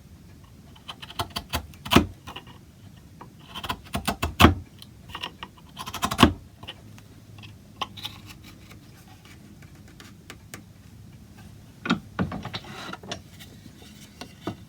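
Light clicks and knocks of wooden parts and hand tools being handled at a workbench, coming in a few short clusters with quiet stretches between.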